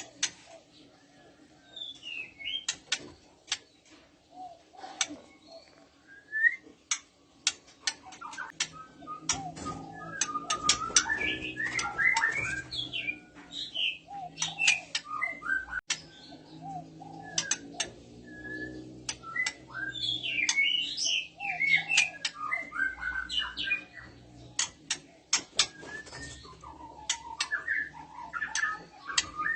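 White-rumped shama calling: sharp clicking notes mixed with short whistled chirps and twisting warbled phrases, sparse at first and busier from about nine seconds in. It is the call of a female in breeding condition.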